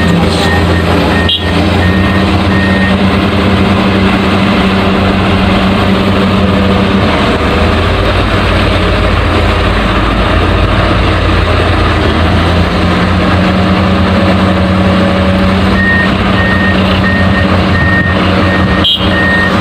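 Excavator engine running steadily, with a reversing alarm beeping in a regular series near the start and again near the end.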